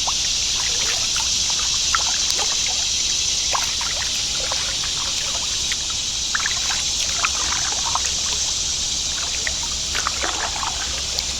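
Kayak paddle strokes: small splashes and drips of water from the blades, over a steady hiss of moving water.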